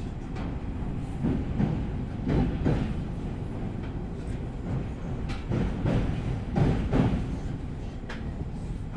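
Interior running noise of an E501-series electric train rolling at reduced speed under a strong-wind restriction: a steady low rumble with about ten irregular knocks and clacks from the wheels passing over rail joints.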